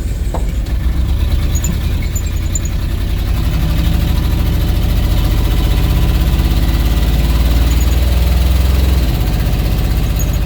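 1979 Ford F100's 302 V8 running under way, heard from inside the cab. The engine note climbs steadily for several seconds, then drops abruptly about nine seconds in, as the C6 automatic shifts up.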